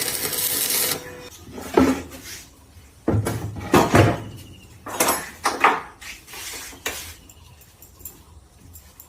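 A loud steady noise stops about a second in, followed by a series of metal clinks and clanks, each with a short ring, as steel pieces or tools are handled and knocked together.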